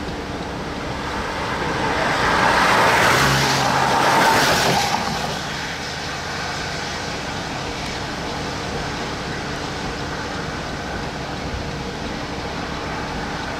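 Steady vehicle road noise that swells into a louder rush for about three seconds starting two seconds in, then settles back.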